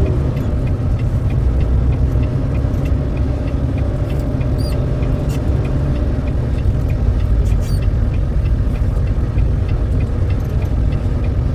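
Truck running down the road, heard from inside the cab: a steady low engine and road rumble, with faint, evenly spaced ticking and a few brief clicks.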